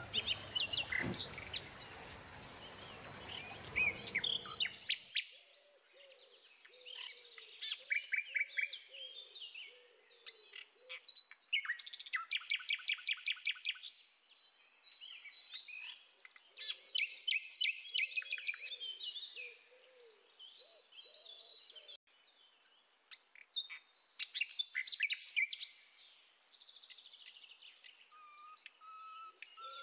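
Birds chirping and singing, with quick trills of rapidly repeated notes and a lower warbling call beneath them. A background hiss drops away abruptly about five seconds in, leaving only the birdsong.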